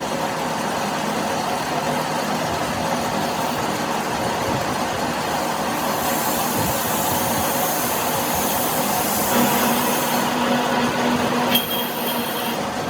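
Workshop machinery running steadily with a hum, a hiss in the upper range for a few seconds midway, and a sharp click near the end.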